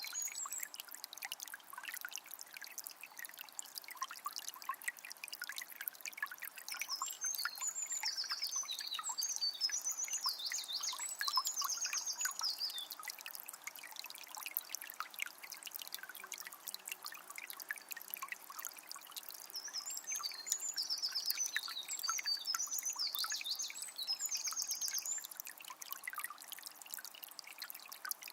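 Small spring water trickling and splashing steadily. A songbird sings two bouts of high, rapid twittering phrases over it, about seven seconds in and again about twenty seconds in, each lasting several seconds.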